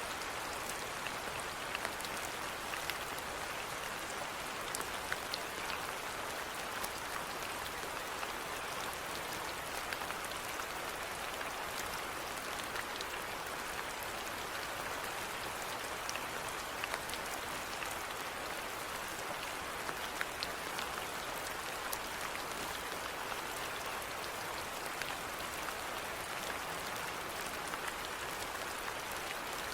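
Steady rainfall: a dense, even patter with many small drops ticking on a hard surface.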